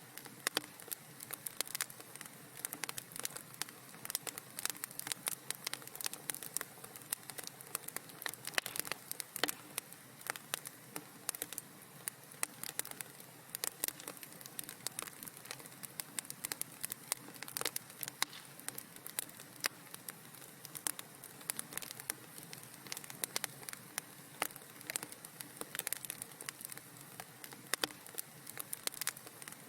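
Wood fire crackling in a fireplace: dense, irregular sharp pops and snaps over a steady low hiss.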